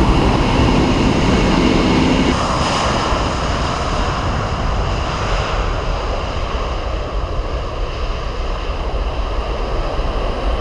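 Jet airliner engines running with a steady roar and whining tones. About two seconds in, the sound cuts abruptly to a second aircraft, a departing Airbus A330, whose engine noise slowly fades.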